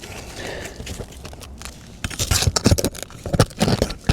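A roofing nail is worked out from under asphalt shingles with a metal tool: scraping, with a quick run of sharp clicks and knocks that starts about halfway in.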